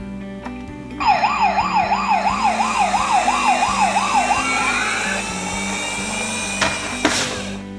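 Emergency-vehicle yelp siren wailing quickly up and down, about three sweeps a second, over steady background music. It ends in a rising glide, and a short whoosh follows near the end.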